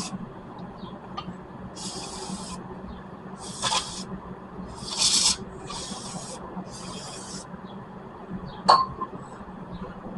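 About six short rasping strokes, each roughly half a second long, like scrubbing or filing, with a short knock about 4 seconds in and another near 9 seconds, during work on the front brakes.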